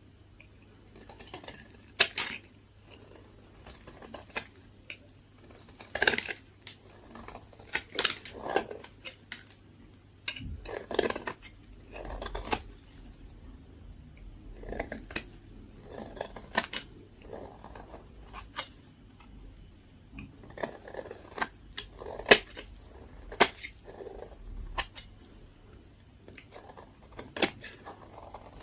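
Dry, hard bar soap being cut and carved with a blade: crisp cracks and short crunchy scrapes come at irregular intervals, some of them sharp and loud.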